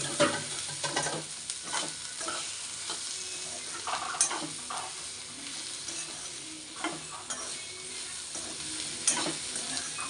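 Chopped okra sautéing in hot oil in a steel kadai, sizzling steadily, while a steel spoon scrapes and knocks against the pan at irregular moments as it is stirred.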